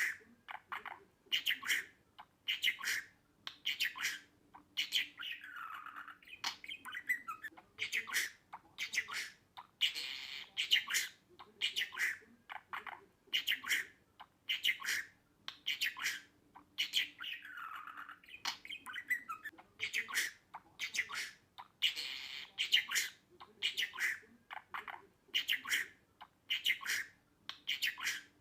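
Budgerigar calls: short, sharp chirps and squawks repeating about once a second, some of them sliding down in pitch.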